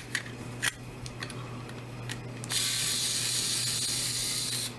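A few light clicks, then about two and a half seconds in a cordless electric precision screwdriver runs for about two seconds with a steady high whir and stops. It is driving out a hard drive mounting screw.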